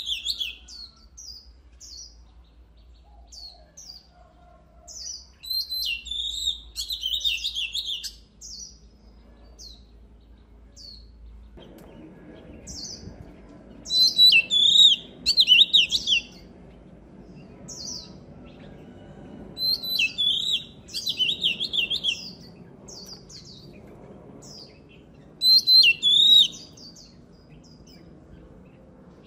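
Oriental magpie-robin singing: loud bursts of rapid, high, varied phrases every few seconds, with scattered single notes in between.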